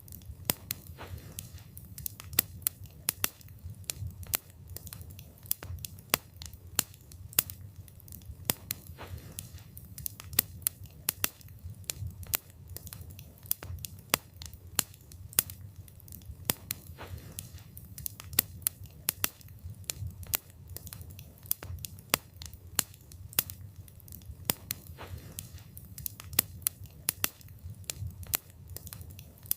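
Wood fire burning, the wood crackling and popping with sharp snaps several times a second at uneven intervals over a low rumble of flames.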